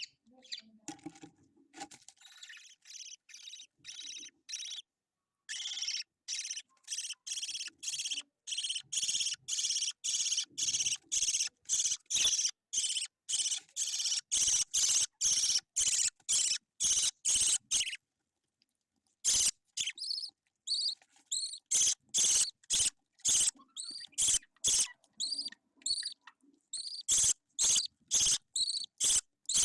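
Budgie chick giving repeated high-pitched begging chirps, about two a second, with a short pause a little past the middle.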